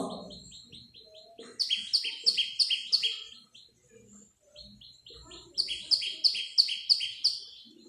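A small bird chirping in two runs of quick, repeated falling notes, about four a second, each run led in by fainter high chips.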